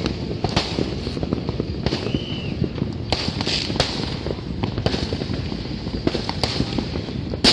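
Many fireworks and firecrackers going off over a steady rumble, with sharp bangs throughout. The loudest bang comes near the end.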